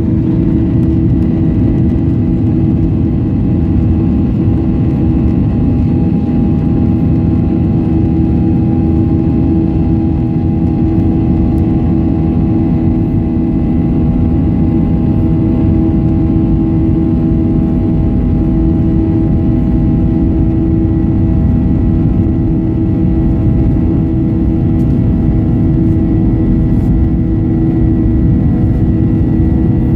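Airliner's jet engines running with a steady loud drone and a few held whining tones, no clear rise in pitch.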